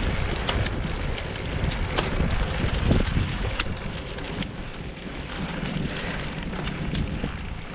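Bicycles rolling along a trail, with wind rumbling on the microphone and scattered rattles and knocks from the bikes over bumps. A high, steady ringing tone sounds three times, each lasting about a second.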